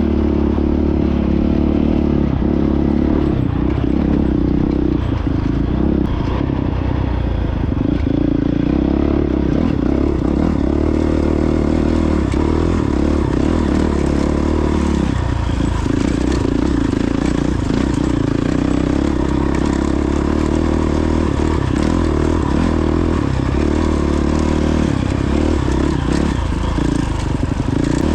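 A 2022 Honda CRF450X dirt bike's single-cylinder four-stroke engine running while being ridden off-road, holding a fairly steady pitch with brief dips as the throttle eases.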